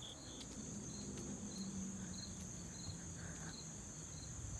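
Insects, crickets among them, calling in an outdoor chorus. A steady high-pitched buzz runs under fainter chirps repeating a few times a second.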